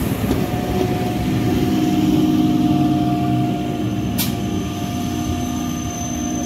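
Electric multiple unit (EMU) local train running along the platform: a steady rumble of the moving coaches with steady electric humming tones, and one sharp click about four seconds in.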